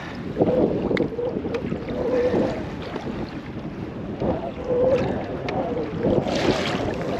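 Choppy water slapping and sloshing against a kayak hull, with wind buffeting the microphone. A wavering low tone comes and goes every second or so, and there is a louder splashy rush a little after six seconds in.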